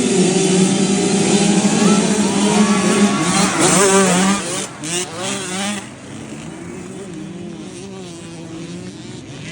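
KTM dirt bike engine revving up and down in bursts as it works through rough terrain, loud for about the first four seconds, then dropping to a quieter, steadier running.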